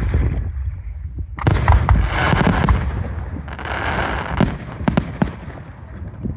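Aerial fireworks bursting: deep booms and several sharp bangs, with dense crackling between them as the shells break.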